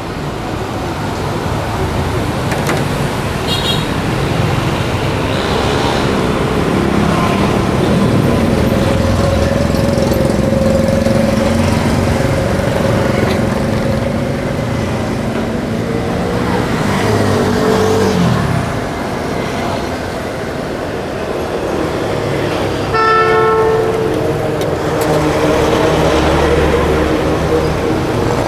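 Busy street traffic running steadily, with engines passing and a short horn beep about five seconds before the end.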